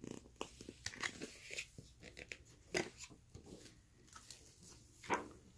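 Pages and cardboard flaps of a lift-the-flap board book being handled: scattered soft clicks and crinkles of the flaps lifting and pages turning.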